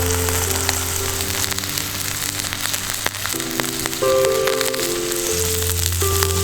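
Steak sizzling over a wood fire, with scattered sharp pops and crackles, under background music of held notes and a low bass line.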